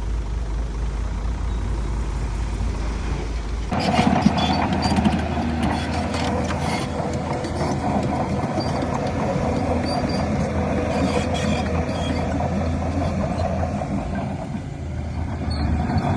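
Heavy diesel earthmoving machinery running. About four seconds in, the low steady engine hum switches abruptly to a louder, busier mix with a steady whine and scattered clattering, which eases briefly near the end before rising again.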